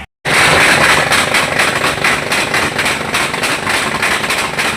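Tractor engine run hard under load in a tractor pull, loud and rough with a dense crackling exhaust, cutting in abruptly just after the start.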